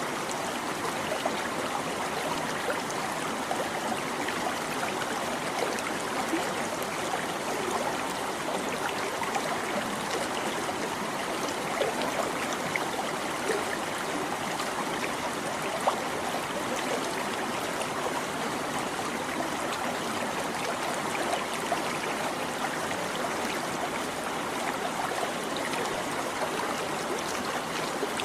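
Small stream babbling steadily over stones, a continuous rush of water with many small splashes and trickles.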